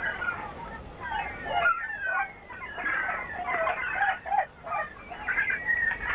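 A dense chorus of short, repeated bird calls, with chickens clucking among them.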